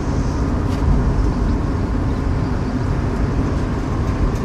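Steady engine and road noise inside the cabin of a moving 1967 AMC Rebel.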